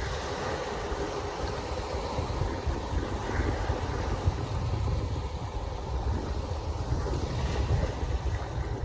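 Wind buffeting the microphone in an irregular low rumble, over a steady wash of water.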